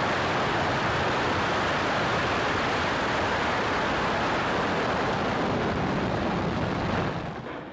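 Falcon 9 rocket's nine Merlin engines firing during ascent just after liftoff: a steady, dense noise that fades away near the end.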